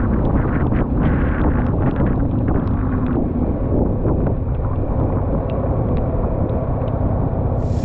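Wind rushing over the microphone of a moving motorcycle, with many sharp ticks of hailstones striking: thick for the first three seconds or so, then only a scattered few.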